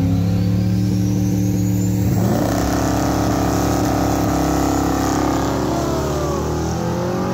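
Drag-race cars' V8 engines at the start line, holding steady, then about two seconds in climbing in pitch at full throttle as they launch down the strip. One is a naturally aspirated 5.3-litre V8 in a Chevrolet Malibu.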